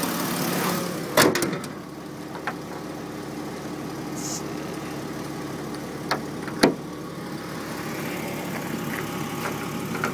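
Jeep Wrangler's straight-six engine idling steadily. About a second in comes a loud slam, the hood being shut, after which the engine sounds quieter and more muffled. Two smaller sharp clicks follow a little past the middle.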